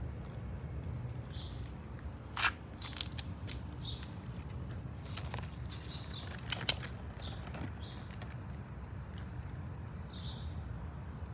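Small birds chirping now and then over a low steady rumble, with a few sharp clicks or knocks, the loudest about two and a half and six and a half seconds in.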